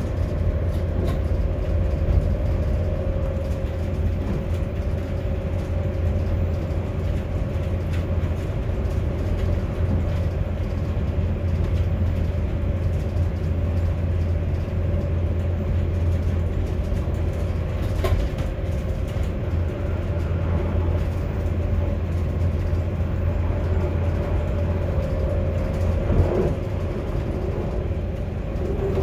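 Train running at speed, heard from inside the driver's cab: a steady low rumble with a constant hum over it and a few sharp clicks scattered through.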